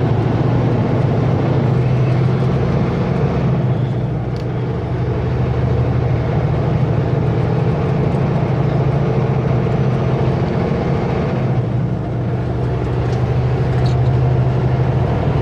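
Kenworth W900L semi truck's diesel engine running steadily while driving down the highway, with constant road and engine noise.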